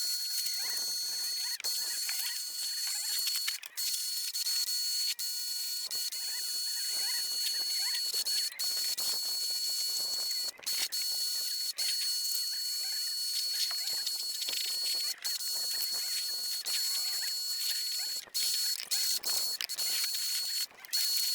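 Water blaster (pressure washer) running and spraying: a steady high hiss with a faint whine, cutting out briefly several times.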